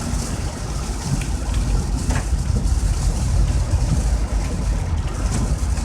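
Steady road rumble and rain hiss heard inside a car driving through heavy rain, with a few faint ticks.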